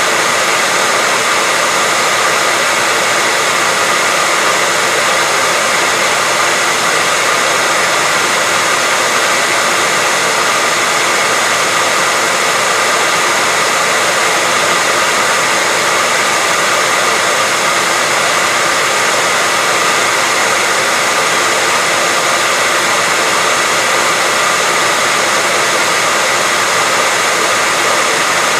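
Hair dryer running steadily: a constant rush of blown air with a faint high whine from its motor on top, unchanging throughout.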